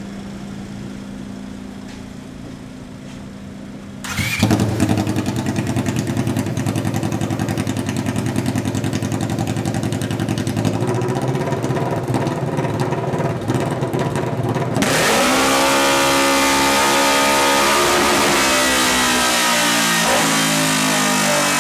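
Polaris RZR XP 900's twin-cylinder engine running with the exhaust unplugged and the intake uncorked completely, loud. It runs steadily low at first, is revved hard about four seconds in and held there, goes louder still with a hiss over it near fifteen seconds, and its pitch falls near the end.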